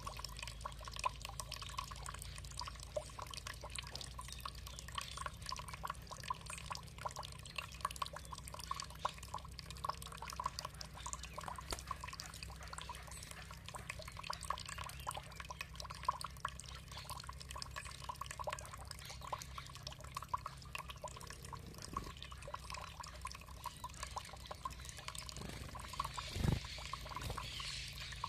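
Water trickling and dripping steadily, a dense patter of small splashes, with one louder low plop about 26 seconds in.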